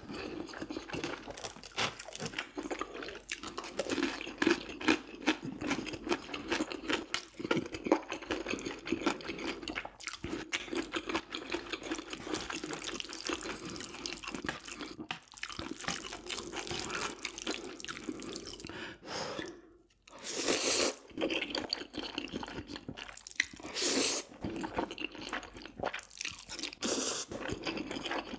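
Close-miked eating: steady wet chewing and smacking of food in the mouth, with a short pause about two-thirds of the way through.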